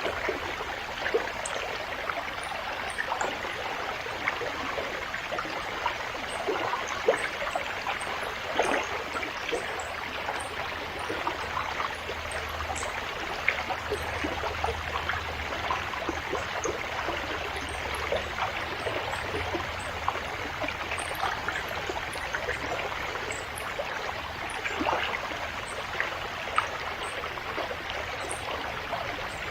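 River water flowing steadily: a constant rush of running water with many small splashes and trickles through it.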